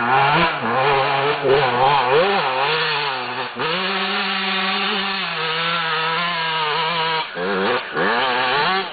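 Motorcycle engine revving hard as the bike tries to climb a hill: the revs rise and fall repeatedly, hold high and steady for a few seconds, then drop away twice near the end and pick up again.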